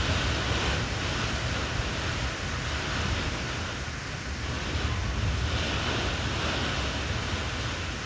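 Storm wind blowing hard and steadily, buffeting the microphone with a low rumble, swelling and easing slightly.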